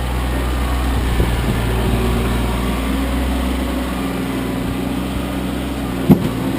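Kioti CK25 compact tractor's three-cylinder diesel engine running steadily, with a single sharp knock near the end.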